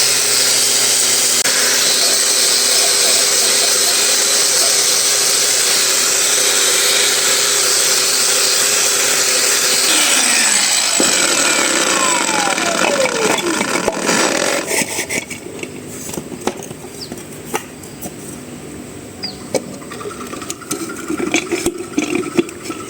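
A power tool running steadily at high speed, switched off about ten seconds in, its pitch falling as it spins down. After that come scattered clicks and knocks of hand work.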